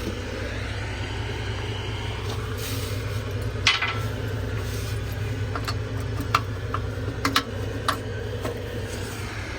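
O&K V12 diesel engine running steadily with a low, even drone. Several sharp metallic clinks sound over it, from about four to eight and a half seconds in.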